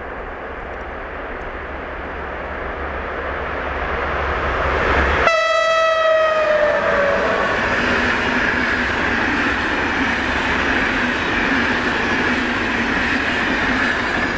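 A passenger train approaches with a rising rumble, then sounds its horn once about five seconds in as it passes. The blast lasts under two seconds and drops slightly in pitch. The coaches then roll past with a steady loud rumble and hum.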